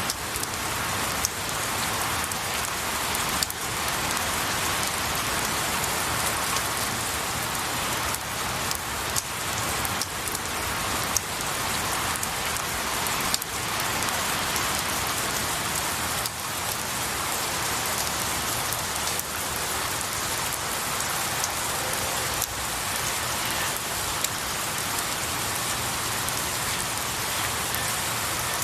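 Steady rain falling on pine needles and a tree, a continuous hiss with the sharper taps of individual drops scattered through it.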